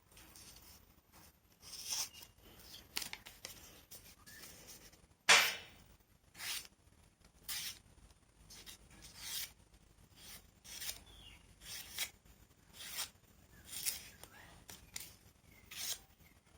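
A freshly sharpened knife slicing through scrap paper again and again, a short crisp rasp about once a second, the loudest about five seconds in: a paper test of the edge just honed on an MDF sharpening wheel, which now cuts cleanly.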